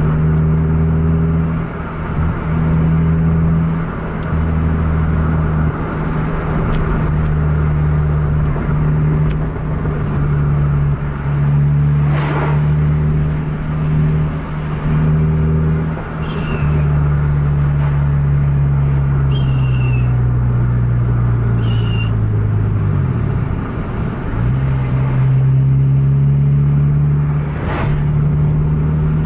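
A car's engine running steadily at high revs, heard from inside the cabin with road noise underneath. About sixteen seconds in the engine note slowly sinks, then picks up again about twenty-five seconds in. Two brief sharp noises cut through, about twelve seconds in and near the end.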